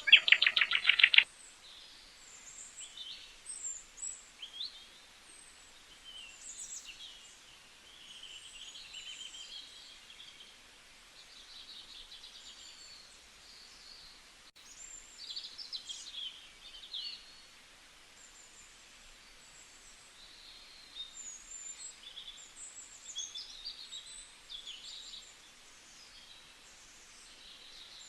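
Birds calling: a loud rapid trill in about the first second, then many faint scattered chirps and short whistled notes from several birds.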